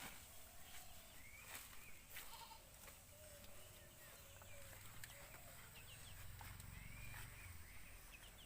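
Quiet background with faint animal calls now and then and a few light clicks.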